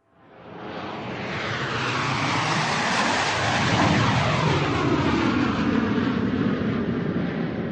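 Airplane flying overhead: a rushing engine noise that swells in over the first two seconds, is loudest around the middle and stays loud, with sweeping shifts in pitch as it passes.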